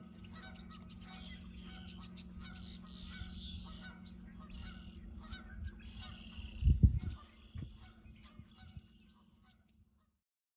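Geese honking in a steady run of repeated calls, over a constant low hum. A loud low thump comes about seven seconds in, and the calls thin out near the end.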